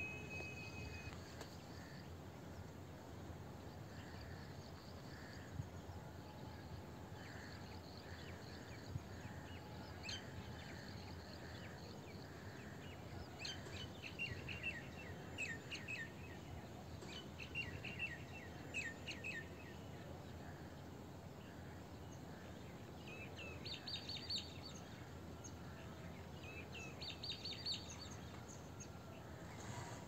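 Birds chirping in quick runs of short notes over a steady low background noise, with two brief higher calls near the end.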